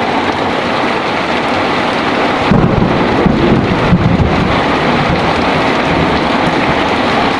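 Heavy rain pouring steadily, with a thunderclap about two and a half seconds in: a few sharp cracks, then a deep rumble that lingers under the rain.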